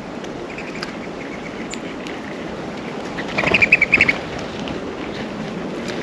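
A small songbird at the feeder gives a rapid call: a quick run of about eight short notes lasting under a second, a little past halfway. Under it runs a steady rushing background noise.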